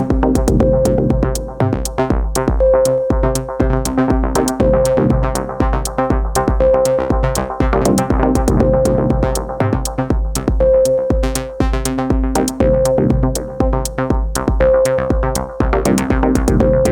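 Live electronic techno from an Elektron Digitakt drum machine and an Arturia MiniBrute 2SE synthesizer: a steady kick drum about twice a second with ticking hi-hats, under a short repeating synth riff.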